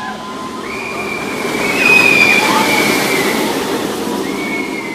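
Roller coaster train rumbling along its track, with long high-pitched squeals over it that peak about two seconds in.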